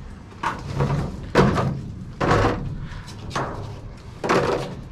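Objects being handled and knocked about while rummaging through trash: a series of sharp knocks and rustles, about one a second.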